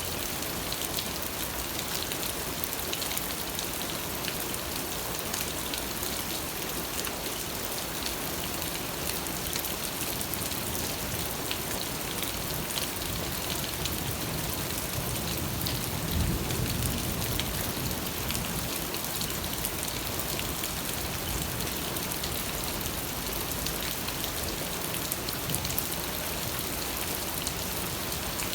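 Steady rain falling, with a dense patter of drops on surfaces. A short low rumble swells up about midway through, then fades.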